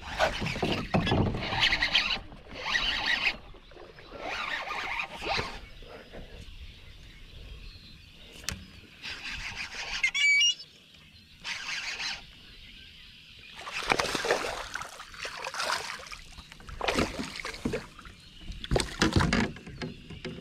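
Kayak paddle strokes swishing and splashing through the water, one after another with short pauses.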